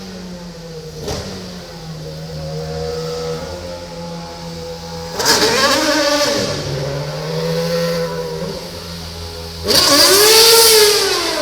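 Formula One car engine running at a steady idle, revved hard twice, each rev rising and falling in pitch over about a second.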